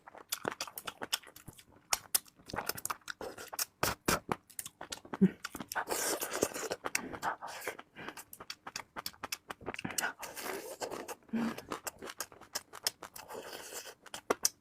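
Close-up eating of chicken feet: chewing and gnawing with many quick, sharp wet mouth clicks and smacks, and bits of crunching, in irregular bursts.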